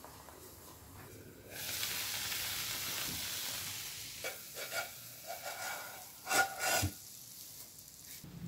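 Grated potato cake frying in oil in a pan: a steady sizzle that sets in about a second and a half in, followed by a series of short clicks and knocks, the loudest of them near the end.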